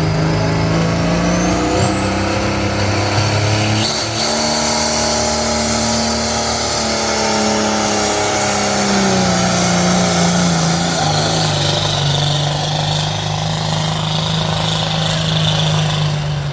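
Ford 8700 farm tractor's diesel engine running hard under load during a pull, with a high whistle over it. The engine pitch steps up in the first few seconds, holds, then drops back from about halfway through.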